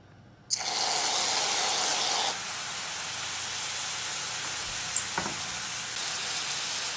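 Aerosol whipped cream sprayed into a hot cast-iron skillet: a sudden hiss about half a second in, louder for the first two seconds, then a steady sizzle as the cream fries in the pan.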